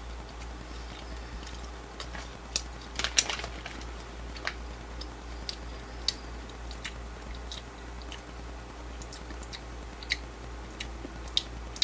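A person biting and chewing a strip of beef jerky: faint, scattered mouth clicks, busiest about three seconds in.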